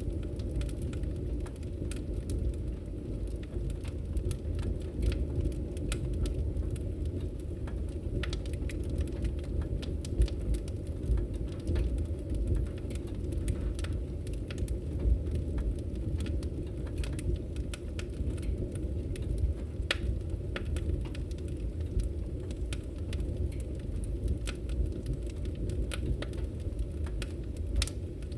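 Campfire crackling, with irregular sharp pops and snaps over a steady low rumble of the burning fire.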